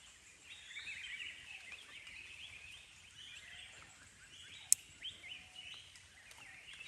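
Forest background of many small birds chirping and twittering together, with one sharp click about two-thirds of the way through.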